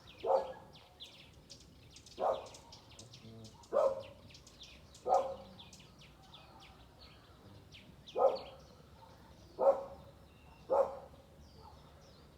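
A dog barks seven times at uneven intervals. Several small birds chirp and twitter continuously in short high calls in the background.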